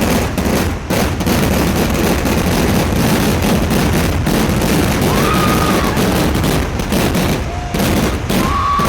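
Kerala vedikkettu temple-festival firecrackers going off in a dense, continuous barrage of rapid bangs with no break. A brief high tone rises and falls about five seconds in and again near the end.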